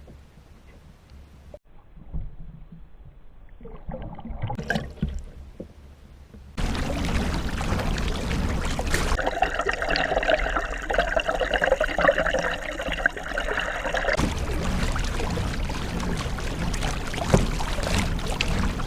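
Water splashing and trickling around a kayak. It is fairly quiet at first, with a few small knocks, then gets much louder and steadier about six and a half seconds in.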